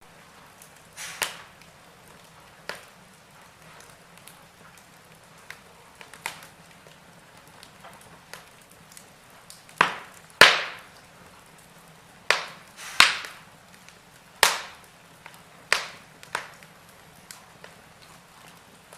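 Wood fire in a fireplace crackling: about a dozen irregular sharp pops and snaps over a faint steady hiss, the loudest about halfway through.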